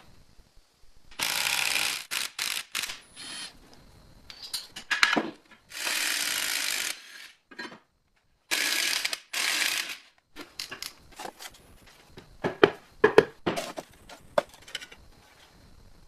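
Workshop work on metal machine parts: several bursts of hissing, scraping noise about a second long, then a run of sharp metallic clicks and knocks.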